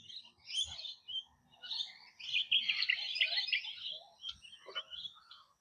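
Birds chirping and twittering, with a denser run of quick high notes in the middle.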